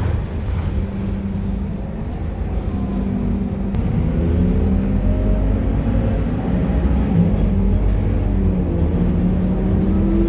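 Scania K230UB bus's five-cylinder diesel engine running under way, over a heavy low rumble; its note wavers up and down and climbs near the end.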